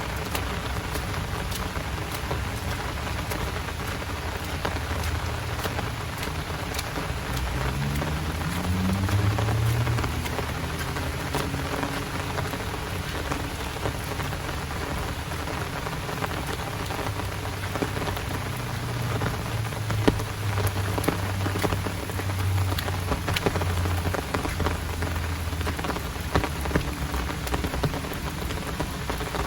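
Heavy rain falling steadily, with many close drop impacts. A low hum rises in pitch about eight seconds in, and a low drone runs through the second half.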